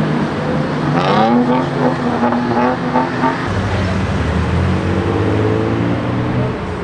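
Sports car engines accelerating: one rises in pitch about a second in, then a deeper engine drone comes in about halfway and climbs again near the end.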